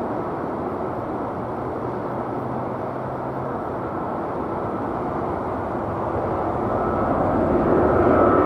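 Jet engines of a Boeing 777-200ER on its takeoff run: a steady rumble that swells louder over the last two seconds as a thin high whine comes in.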